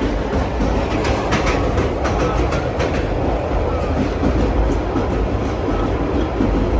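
Steady rumble of a moving passenger train heard from inside a sleeper compartment, with scattered clicks and rattles from the wheels and carriage, mostly early on.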